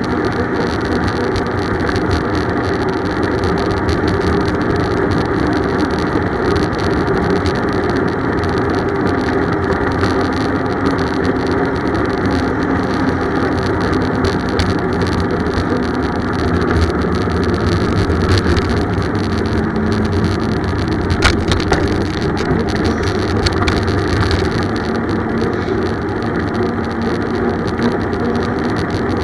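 Steady rushing noise of a bicycle ride in progress, with a single sharp click about two-thirds of the way through.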